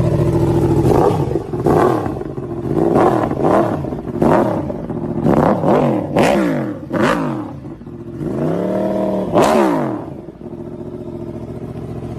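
Yamaha R1's inline-four running through a new Toce aftermarket exhaust, freshly started: it idles, is blipped in a string of quick revs that rise and fall, then held in one longer rev near the end before settling back to idle.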